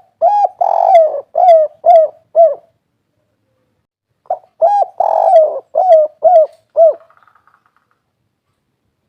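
Spotted dove cooing its 'kuk 3' song, twice: each phrase is a run of about five coos lasting some two and a half seconds, with the second phrase starting about four seconds in.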